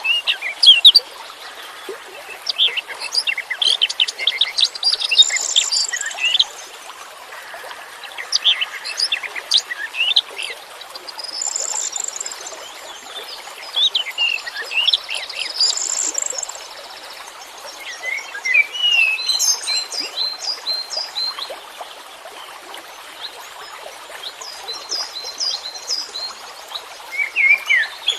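Songbird song: rapid chirps, trills and sweeping whistles in bursts a few seconds long, with short pauses between, over a steady background hiss.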